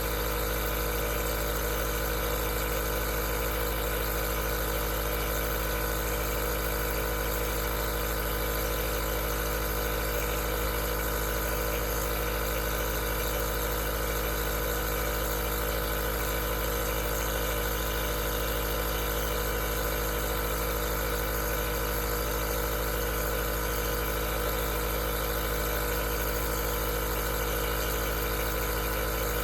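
Aerosol nebulizer running steadily: a constant motor hum with several steady tones and a hiss over it.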